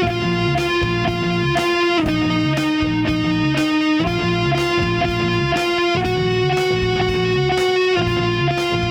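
Instrumental passage of a home-recorded nu-metal song: electric guitar holding a note over a repeating low riff, with drum hits keeping time. The chord shifts about every two seconds.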